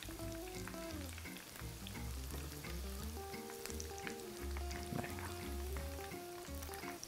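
Breaded onion rings sizzling and crackling as they fry in olive oil in a frying pan, with forks turning them. Soft background music with held notes plays underneath.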